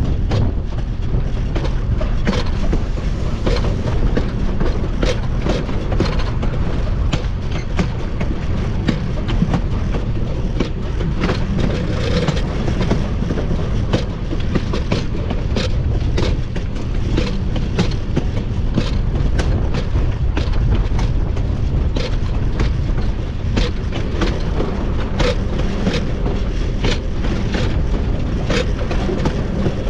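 Narrow-gauge steam locomotive rolling along the track: a steady low rumble of wheels on rail, with frequent sharp, irregular clicks and clacks from the pilot truck wheels running over rail joints.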